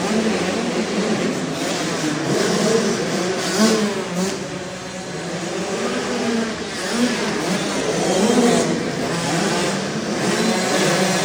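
Small motocross dirt bike engines revving, the pitch rising and falling repeatedly as the throttle is worked.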